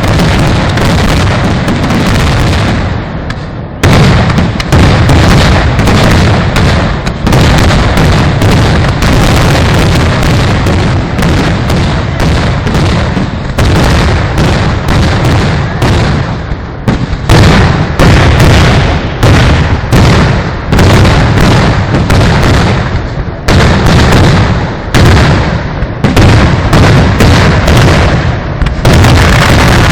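A dense barrage of firework explosions, blasts following one another so fast that they overlap into an almost continuous, very loud rumble of booms. There is a brief dip about three seconds in before the barrage resumes at full force.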